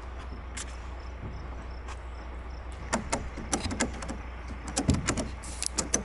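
Sharp knocks and clicks come in clusters from about three seconds in, from a structural insulated roof panel being shifted and tilted into place. A steady low hum runs underneath.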